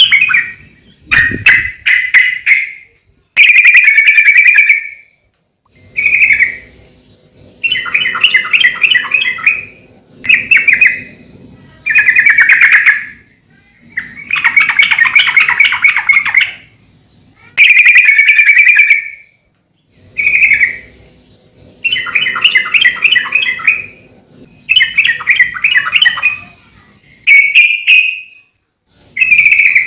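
Yellow-vented bulbul singing: loud, bubbly chattering phrases of about one to two seconds, repeated one after another with short pauses between them.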